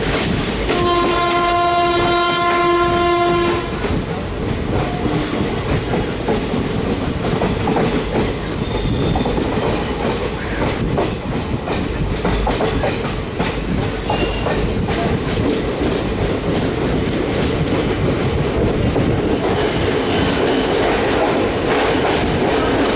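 A WAM4 electric locomotive's horn sounds one steady blast of about three seconds near the start. Then express passenger coaches roll past with a continuous rumble and a rapid clatter of wheels over rail joints.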